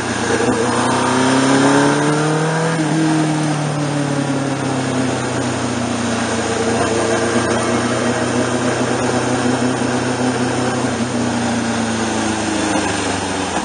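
Sport motorcycle engine heard from the bike itself at low, steady road speed. The revs rise briefly in the first couple of seconds, then ease off slowly and evenly, with steady wind rush.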